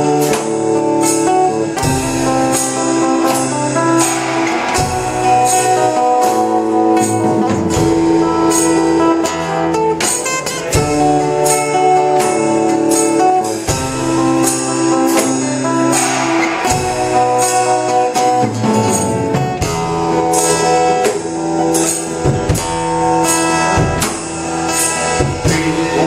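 Live rock band playing an instrumental passage with no singing: sustained chords and melody over a steady drum beat.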